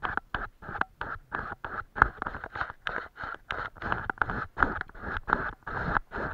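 Paintbrush working watercolour paint in quick, irregular dabs and strokes, about three or four a second.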